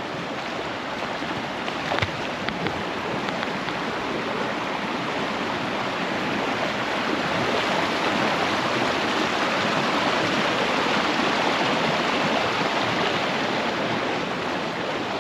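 River water rushing through rapids, a steady rushing noise that swells somewhat louder toward the middle. A few short knocks sound about two seconds in.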